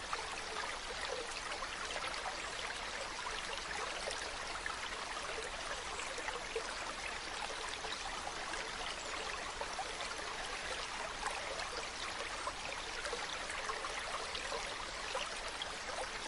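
Mountain stream running over rocks: a steady rush of water with small splashes and gurgles.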